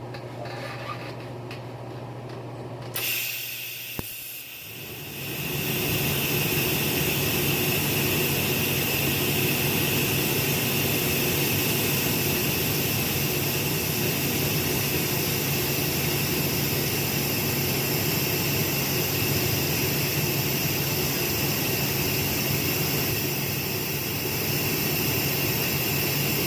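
TIG welding arc on a stainless steel exhaust dump tube: a low hum, then the arc starting suddenly about three seconds in and building over a couple of seconds into a steady hiss with a buzz.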